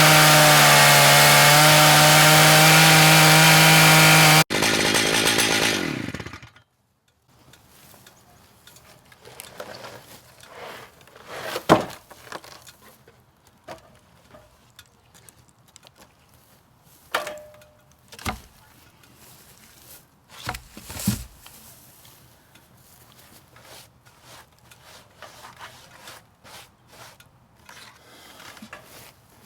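Large Stihl chainsaw on a chainsaw mill running at high revs under load, its pitch sagging slightly as it cuts. About four and a half seconds in it is shut off and winds down, falling in pitch. After that there are only scattered knocks and clunks.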